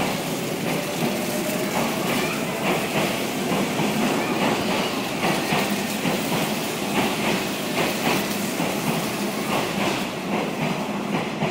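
Electric commuter train pulling out past the platform. Its motors whine rising in pitch in the first second or so, and its wheels clack over the rail joints.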